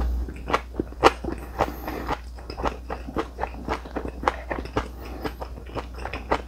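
Close-miked chewing of crisp vegetable side dishes: a steady run of short, wet crunches, about three a second.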